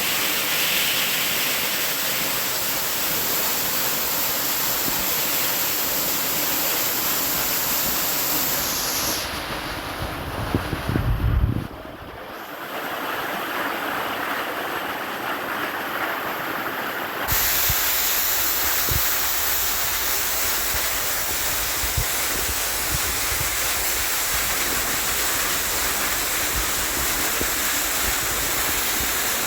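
Rushing water, a loud steady hiss. About a third of the way in it goes duller and quieter, with a short burst of low bumps. A little past halfway the full rush cuts back in abruptly.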